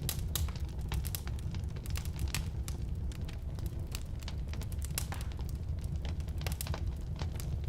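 Firewood burning in a fireplace: a steady low rumble of flame with frequent sharp, irregular crackles and pops from the wood.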